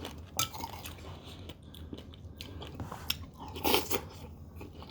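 Close-up chewing of a mouthful of berries and pomegranate seeds in almond milk: soft wet crunches and clicks, with one louder crunch about three and a half seconds in.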